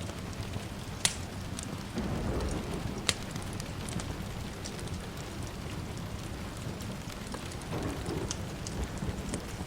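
Steady rain falling, with sharp wood-fire crackles popping every second or so. A soft low rumble of distant thunder swells about two seconds in and again near the end.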